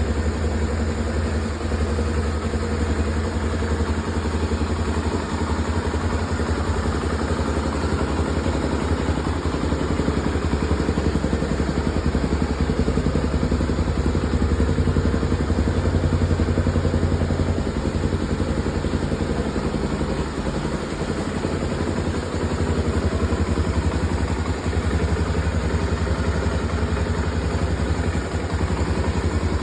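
Honda XR250 Tornado's single-cylinder four-stroke engine running steadily at idle, with a brief rise in level about halfway through.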